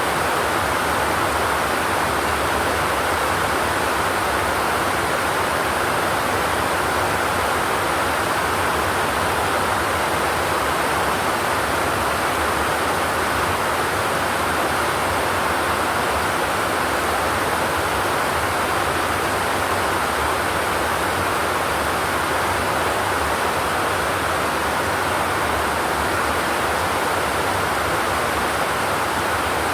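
Steady rain falling on a zinc roof, an even, unbroken hiss with no thunder.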